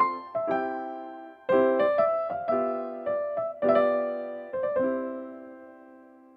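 Background piano music: a gentle melody of struck notes, with a short break about a second and a half in, ending on a chord that rings out and fades away near the end.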